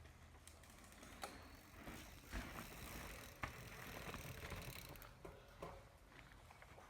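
Faint, irregular clicks and rattles from a mountain bike on the trail, very quiet overall.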